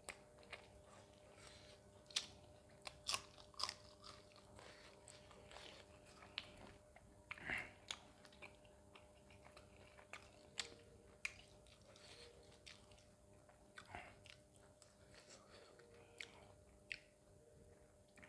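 A person chewing and biting food close to the microphone: mutton curry eaten by hand with roti and raw green chilli. Many short sharp clicks and crunches, with one longer, louder one about halfway through.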